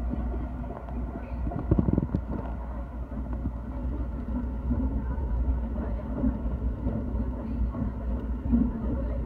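Steady low rumble of a JR commuter train running at speed, heard from inside the carriage, with a few louder knocks about two seconds in.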